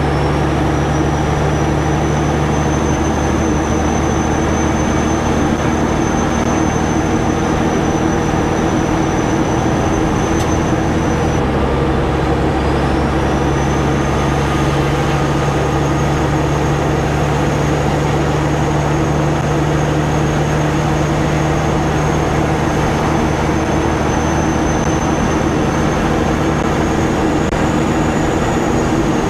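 Caterpillar diesel engine of a Peterbilt 379 semi truck pulling hard under a heavy load, with a high turbo whistle that climbs at the start. About eleven seconds in, the engine note and the whistle drop off briefly for a gear shift, then the whistle climbs again.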